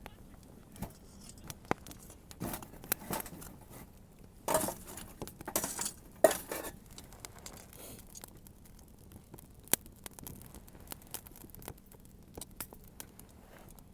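Wood fire crackling: irregular sharp pops and snaps, with a louder rustling, hissing stretch of about two seconds a little before the middle.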